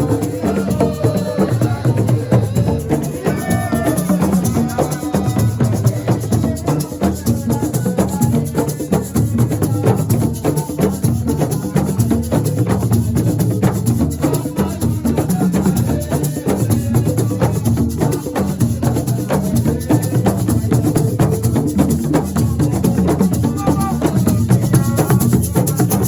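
Live assiko music: fast, dense hand-drum percussion with shaken rattles, steady throughout, and brief sung phrases near the start and near the end.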